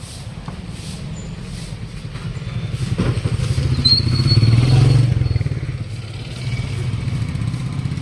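A motor vehicle engine running, swelling louder toward the middle and then easing off, as a vehicle passes or moves close by. A brief thin high squeal sounds over the loudest part.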